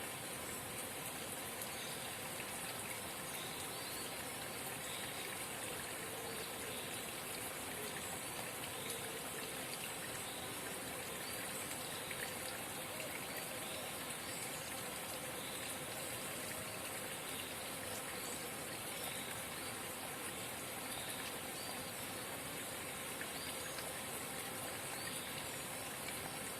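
A forest spring babbling steadily, water trickling continuously.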